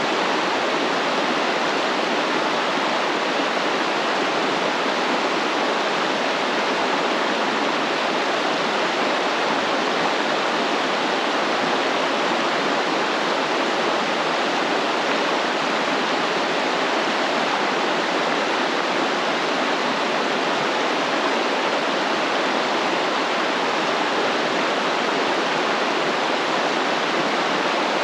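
Flowing stream, water rushing steadily over its bed.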